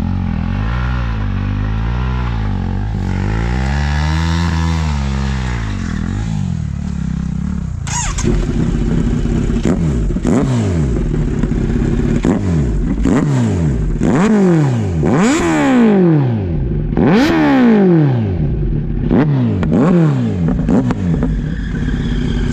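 Kawasaki Z900's inline-four engine through an Arrow full-system exhaust, revved at standstill. It starts with gentle rises and falls in revs, then from about eight seconds in gives a string of sharp, quick blips to higher revs, each falling straight back.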